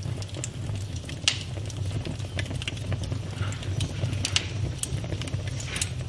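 Campfire burning with a steady low roar of flames and irregular crackles and pops from the wood, a sharper pop a little after a second in and another just before five seconds.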